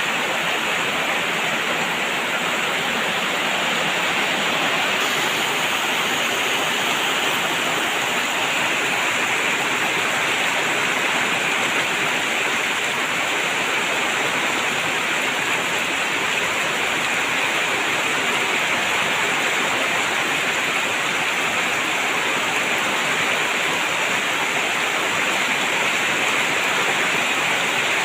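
Heavy rain falling steadily, a dense even hiss with no single drops, thunder or other sounds standing out.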